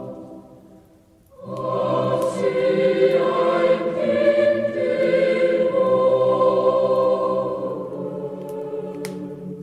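Choir singing a Christmas song: one phrase dies away, and after a short breath a new, fuller phrase begins about a second and a half in and is held, easing off near the end.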